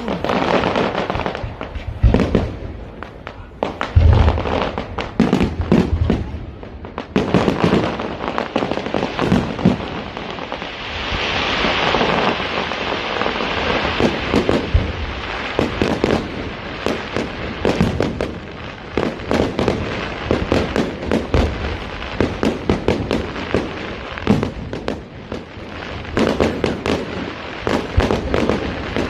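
A fireworks display: deep booms of shells bursting, heaviest in the first several seconds, over dense rapid crackling and popping. A steady hissing fizz swells for a few seconds around the middle.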